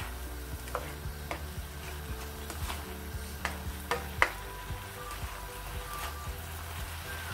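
Chicken, tomato and capsicum masala frying in a non-stick wok, a steady sizzle with a spatula stirring through it and clicking against the pan several times, the loudest knock about four seconds in.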